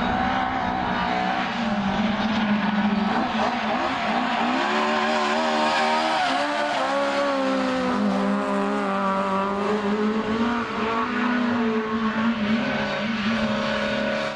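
Rally car engine running hard at high revs, its pitch rising and falling as the car goes through the gears and corners.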